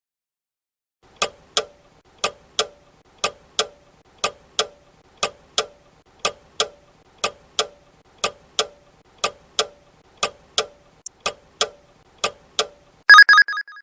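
Countdown-timer sound effect: a clock ticking tick-tock, two clicks a second, for about twelve seconds, then a short ringing bell, the loudest sound, marking that the time to answer is up.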